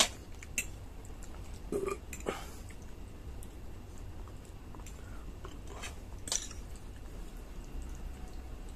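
Close-miked chewing of a mouthful of spaghetti, with a few short sharp clicks of a metal fork and spoon against a ceramic plate as more pasta is twirled.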